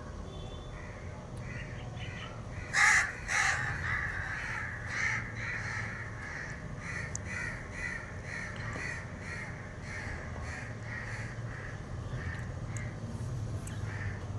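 A bird calling over and over in a quick series of short calls, about two or three a second. The loudest calls come a few seconds in, and the series then carries on more evenly before thinning out near the end.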